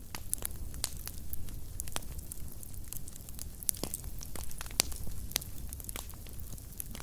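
Fireplace fire crackling: irregular sharp pops and snaps over a steady low rumble of the flames, with one pop louder than the rest a little after the middle.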